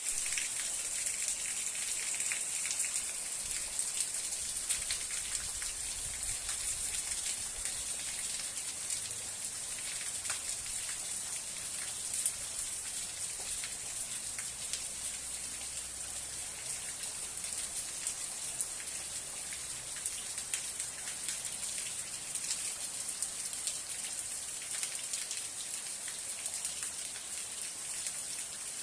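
Steady rain falling, a dense hiss of drops with many small individual drop ticks on a surface.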